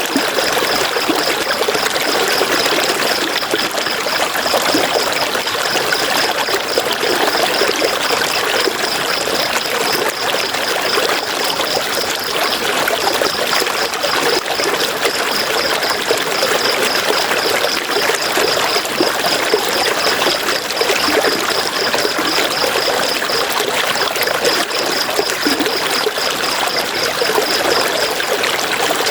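River water flowing in a steady, unbroken rush. A high, even chirping of several chirps a second runs over it and stops briefly twice.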